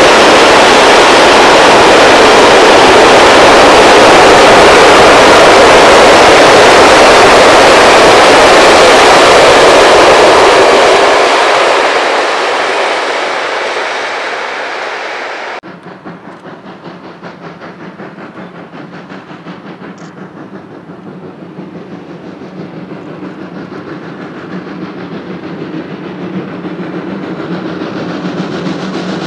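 Freight train wagons rolling past close by, their wheels clattering over the rail joints, fading as the train draws away. After a sudden cut about halfway through, the Borsig 2-8-2 Mikado steam locomotive 06 018 is heard working in the distance with a faint rhythmic beat, growing louder near the end.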